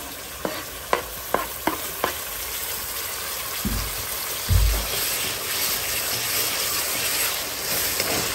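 Sliced tomatoes sizzling in hot oil in a metal kadai with onions and whole spices, while a wooden spatula stirs them and taps against the pan several times in the first two seconds. Two dull thumps come near the middle, and the sizzle grows louder in the second half.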